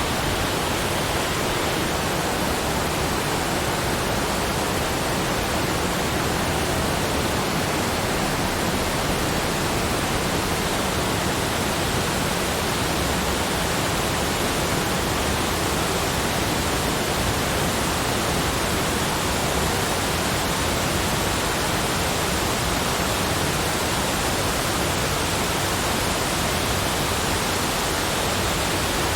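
Steady, even rushing noise spread across low and high pitches alike, with no changes in level.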